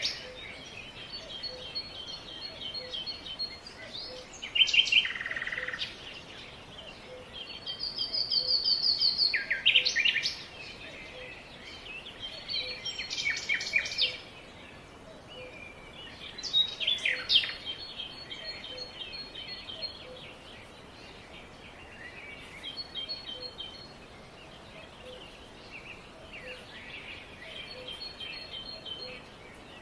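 Several wild birds chirping and calling: loud sweeping calls and chirp series every few seconds, with quieter rapid trills in between, over a steady background hiss. The calls grow quieter in the second half.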